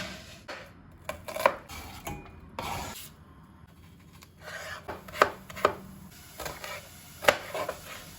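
Household handling sounds: irregular knocks and clatter with short scraping swishes, the sharpest knocks about a second and a half in, at about five seconds, and near seven seconds.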